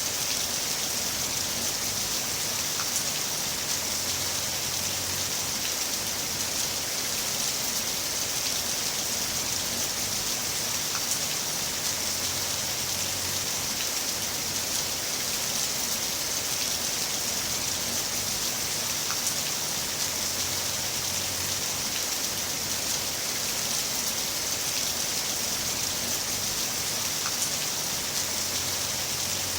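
Heavy rain falling steadily, an even hiss of drops with faint scattered ticks of individual drops striking a surface, and a soft low rumble that swells and fades every few seconds.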